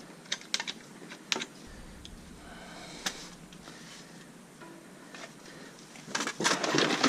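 Light clicks and knocks of hard plastic electronic units being handled, with a louder burst of rattling and rustling near the end as the gear is shifted.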